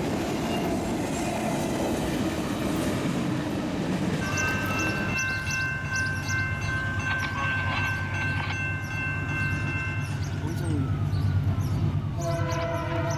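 Railroad cars rolling and clattering along the track. About four seconds in, a locomotive's multi-chime air horn sounds one long blast of about six seconds over the diesel engine's low drone. Near the end a different, lower chord of steady tones begins.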